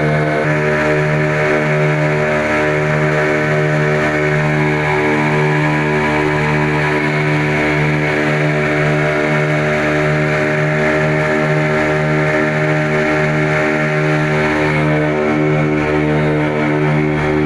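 Boat engine running steadily under way, a loud, even, pitched drone with a slight regular pulse.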